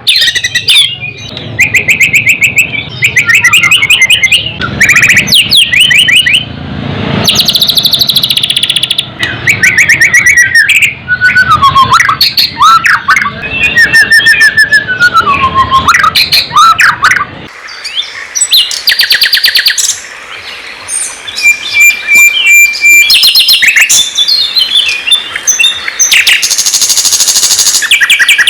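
Loud songbird song in rapid, varied phrases of chirps, trills and sweeping whistles: a birdsong tutoring recording (masteran) of the kind played to white-rumped shamas to teach them song. The low background hum cuts out abruptly about two-thirds of the way through, as at a splice between recordings.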